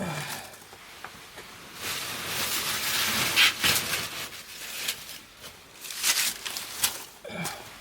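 Firewood burning in the firebox of a wood-fired bath: irregular crackling and sharp pops over a hiss of flames, densest a couple of seconds in. A short call falling in pitch is heard at the start and again near the end.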